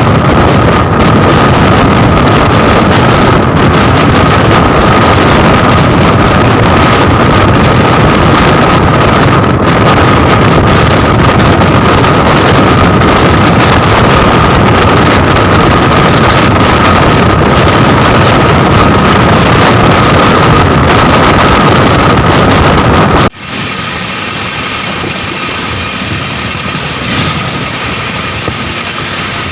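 Loud rushing noise of a moving express train, with heavy wind buffeting on the microphone and a steady high tone running through it. About 23 seconds in, the noise drops suddenly to a quieter, steady rush.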